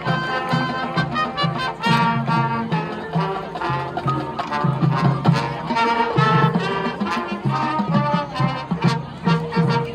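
High school marching band playing, with brass carrying the tune over a steady drum beat.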